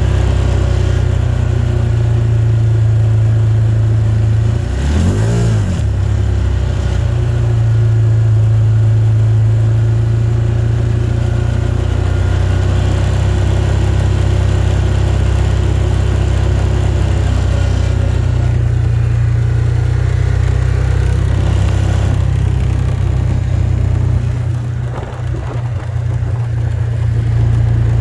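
Car driving, heard from inside the cabin: a steady low engine and road drone, with a brief rise-and-fall in pitch about five seconds in.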